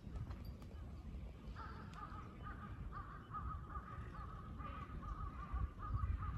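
A bird calling in a quick run of short, repeated notes that starts about a second and a half in, over a low steady rumble.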